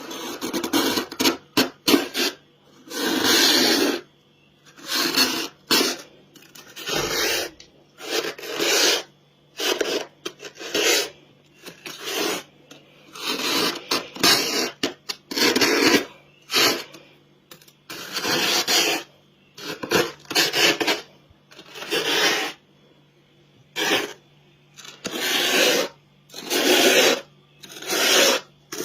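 Frost being scraped from a humidifier: repeated rasping scrape strokes, each about half a second to a second long with short pauses between. A low steady hum runs underneath.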